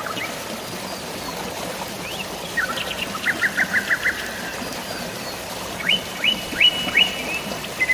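Songbirds chirping in two short phrases of quick, downward-sweeping notes, over a steady hiss of running water.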